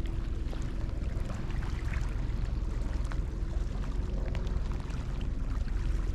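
Steady wind rumble on the microphone with shallow lake water lapping and splashing, and a few light clicks.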